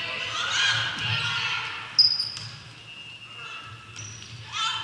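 Game sounds on a gym court: sneakers squeaking on the floor several times, with a sharp ball thud about two seconds in. Spectators' voices run underneath.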